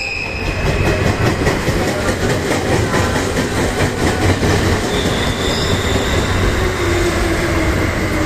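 Train of 14-series coaches hauled by a DD51 diesel-hydraulic locomotive moving through the station, with a steady engine rumble and wheels clicking over rail joints. A faint falling tone comes in near the end.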